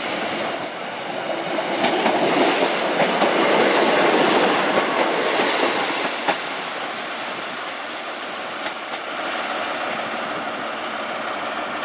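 Class 150 Sprinter diesel multiple unit pulling into the platform, its wheels running and clattering over the rail joints. The noise swells to its loudest about four seconds in and then eases, with a few sharp clicks.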